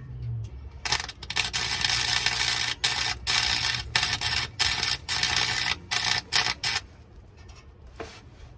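Arc welding on a truck exhaust pipe: the arc crackles in a series of short welds with brief breaks between them, stopping shortly before the end.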